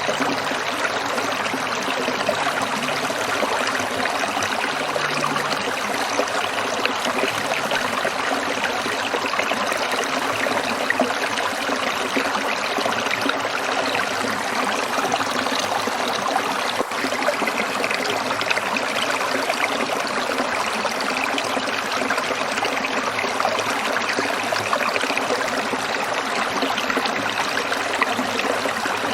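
Stream water trickling and splashing over rocks, with a steady fine bubbling texture.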